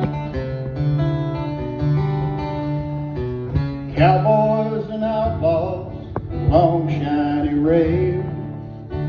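Acoustic guitar playing a country song's opening, with a wavering melody line joining about four seconds in.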